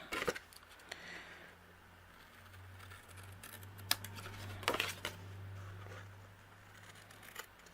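Scissors trimming excess cardstock, a few separate snips, with a faint steady low hum underneath.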